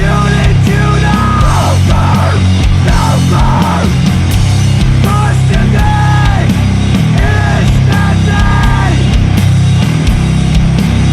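Sludge metal: heavy, loud, down-tuned distorted guitars and drums, with pitched notes that bend up and down in recurring phrases above the low end.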